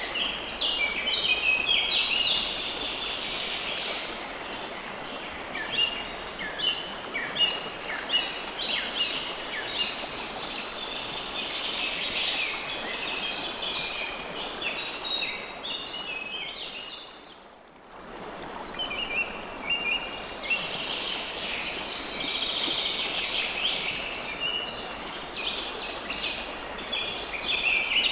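A river flowing steadily, with many small birds chirping rapidly over it. Water and birds fade out briefly a little over halfway through, then return.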